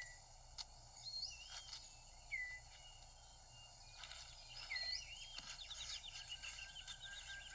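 Tropical rainforest ambience: a steady high insect drone, with birds calling short slurred whistles every second or so and a quick run of chirps in the second half. A few faint sharp clicks come through.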